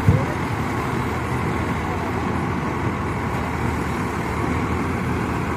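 Swaraj 963 tractor's diesel engine running steadily with a dense, low rumble, with one brief thump just after the start.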